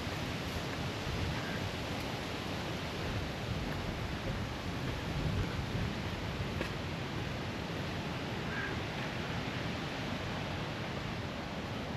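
River Swale flowing, a steady rushing hiss of moving water, with an uneven low rumble underneath.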